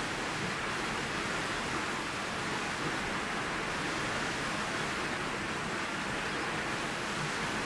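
Hard, steady rain on a loud tin roof overhead: an even, unbroken hiss.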